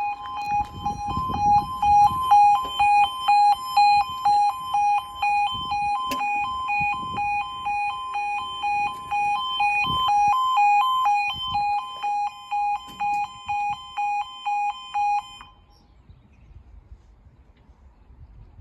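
Level crossing warning alarm sounding a two-tone warble, repeatedly alternating between a lower and a higher tone, then cutting off suddenly about 15 seconds in. This is the audible warning that the barriers are coming down for an approaching train.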